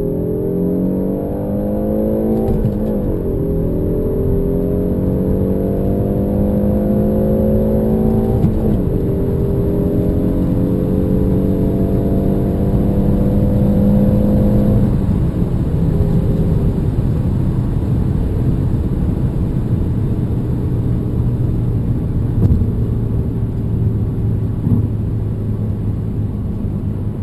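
Peugeot 308 GT's turbocharged engine under hard acceleration, rising in pitch through the gears, with gear changes about three and eight and a half seconds in. About fifteen seconds in it lets off and settles to a steady, lower drone with road noise.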